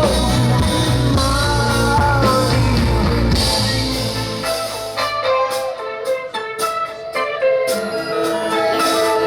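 Live rock band playing a song, with a sung vocal line early on. About five seconds in, the bass and drums drop out, leaving a sparser, choppy guitar passage. The fuller band sound comes back in near the end.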